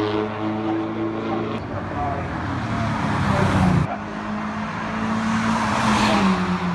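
Rally car engine running with a steady drone, swelling into a louder rush about three seconds in that cuts off abruptly. A steady engine note follows and drops in pitch near the end as the car goes past.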